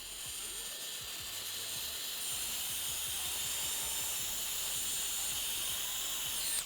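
Steady hiss of rushing air with a thin, high whine, cutting off suddenly at the end.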